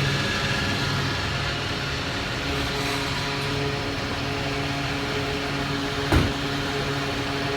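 A machine running steadily with a low hum, with one sharp click about six seconds in.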